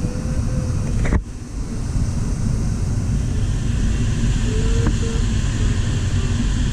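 Steady rush of airflow around an LS4 glider's cockpit in flight, a deep wind noise on the microphone, with a brief knock and a dip about a second in.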